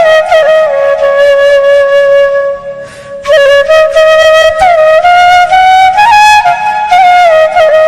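Music: a solo flute playing a melody of held notes, with a short break about three seconds in.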